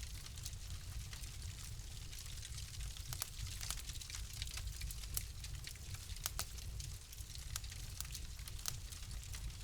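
Wood fire crackling in a fireplace: irregular sharp pops and snaps, several a second at times, over a steady low rumble and soft hiss.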